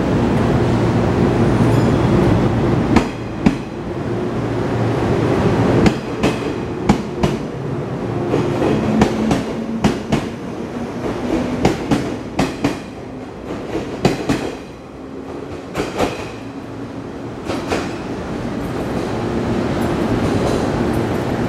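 JR East 115-series electric multiple unit pulling out of the platform: a steady equipment hum at first, then its wheels clatter over rail joints with many sharp clicks as the cars roll past. Near the end a steady hum builds again as another train approaches.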